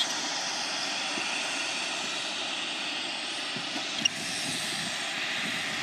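Single-engine Mooney M20J light aircraft running, a steady even noise of engine and rushing air with no change in pitch. A brief sharp tick sounds about four seconds in.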